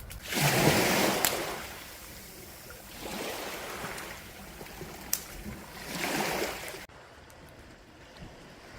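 Sea waves washing onto the shore: three swells of rushing noise, the first the loudest, with a couple of sharp clicks. The sound drops suddenly to a quieter background near the end.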